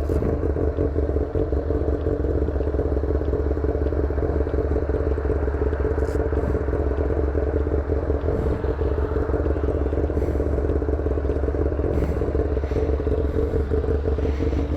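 Motorcycle engine running at a steady pace while riding, with the exhaust tip missing after it came off, so it sounds way different from its usual note.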